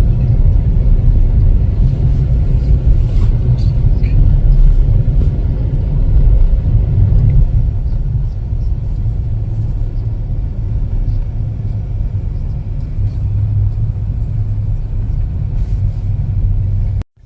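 Steady low rumble of a car being driven, heard from inside the cabin. It cuts off suddenly near the end.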